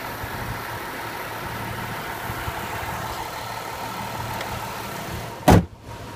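Supercharged 3.0-litre V6 of a 2014 Jaguar XF idling steadily under the open hood. About five and a half seconds in, the hood slams shut with a single loud thud, and the idle goes on more muffled.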